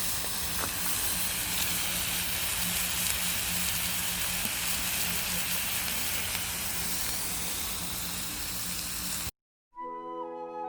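Samgyeopsal (pork belly) sizzling on a cauldron-lid griddle over a wood fire, a steady dense hiss. It cuts off about nine seconds in and flute music begins.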